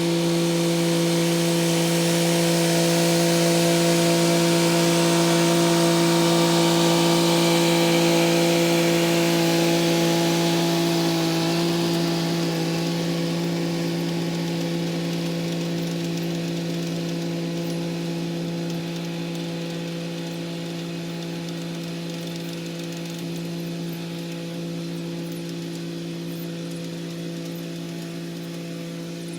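Kubota SL35 tractor running with its rotary tiller working the soil: a steady drone of constant pitch with a hiss above it. It grows louder over the first several seconds, then slowly fades.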